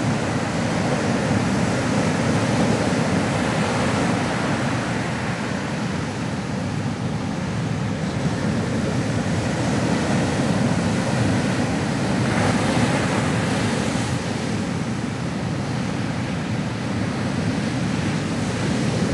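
Ocean waves breaking on a shore in a steady, continuous wash, swelling gently and easing back.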